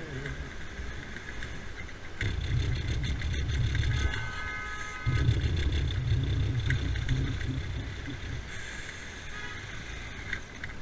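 Motorbike ride noise: engine and wind rumble on the rider's microphone, growing louder about two seconds in and again about five seconds in. About four seconds in, a horn-like tone sounds for about a second.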